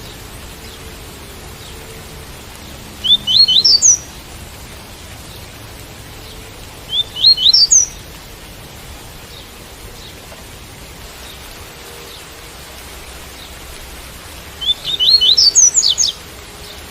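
Double-collared seedeater (coleiro) singing its tui-tui song: three short phrases of quick rising whistled notes, about a second each, over a steady hiss of rain.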